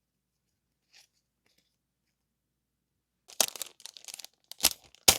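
Stationery packaging being crinkled and torn open by hand: a quick run of crackly rustles and rips that starts a little over three seconds in after near quiet.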